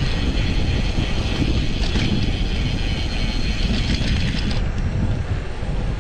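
Wind rumbling on the microphone of a moving road bike, with a ratcheting mechanical clicking over it. The clicking is typical of a bicycle freehub coasting.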